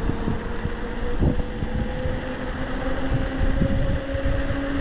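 Wind buffeting the microphone on a moving e-bike, with a steady electric motor whine that rises slightly in pitch.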